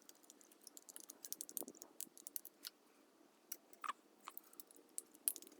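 Light, irregular metal clicks and taps from a drill press pulley being fitted and its set screws worked in. The set screws will not go in all the way.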